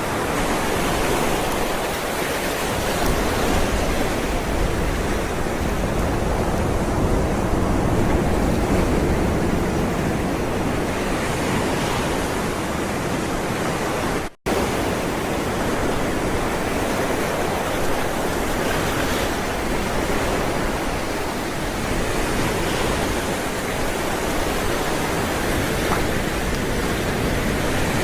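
Ocean waves rolling and washing on the shore in a continuous rush of surf, swelling and easing gently. The sound cuts out for a split second about halfway through.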